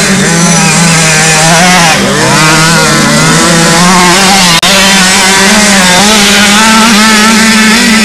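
Several 50cc two-stroke youth motocross bikes racing at high revs, their engines dipping in pitch about two seconds in and picking up again. A brief cut-out just past halfway.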